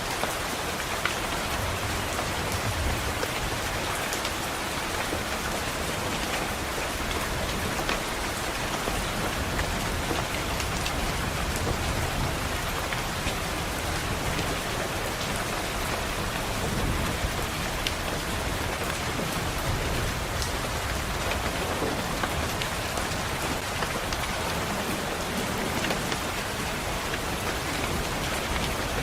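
Steady rain pattering on a window, an even hiss of many drops, with a low rumble swelling now and then.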